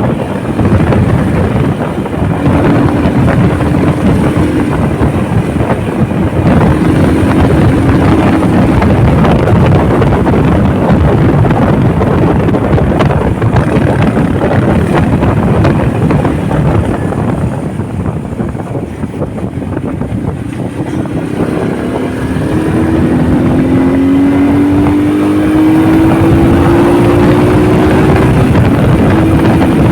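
Motorcycle engine running on the road under heavy wind buffeting on the microphone. The engine eases off briefly about two-thirds of the way through, then its note climbs steadily as the bike accelerates.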